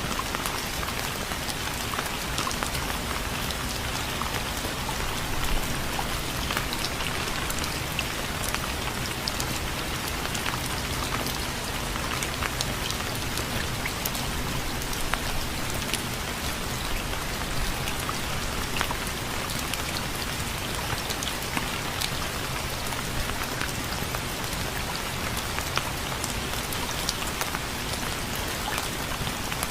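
Steady rain falling, a continuous hiss dotted with the ticks of individual drops striking a surface.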